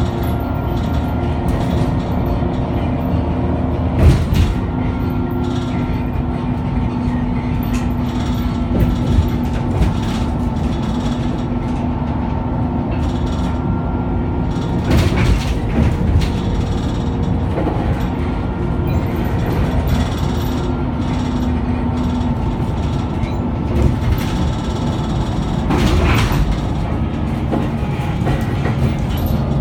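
Scania K94UB three-axle double-decker bus running in service: a steady engine and drivetrain drone whose pitch slowly rises and falls with the bus's speed, with a few sharp knocks and rattles now and then.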